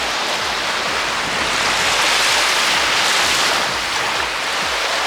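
Lake Michigan waves breaking and washing up the beach, a steady rushing that swells a little about two seconds in.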